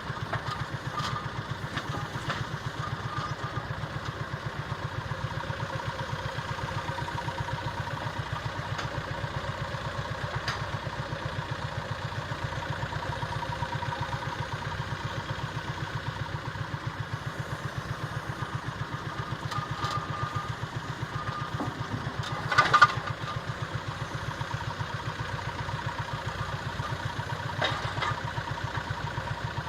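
John Deere Gator HPX 4x4 utility vehicle's engine running steadily with an even throb. About three-quarters of the way through there is a brief loud clatter, and a smaller knock follows a few seconds later.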